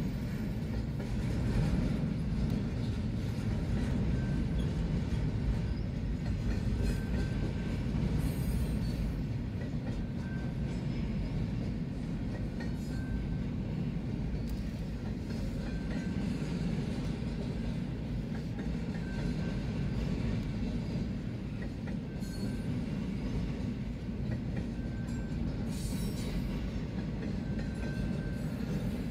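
Intermodal freight train cars rolling past, a steady low rumble of steel wheels on the rails.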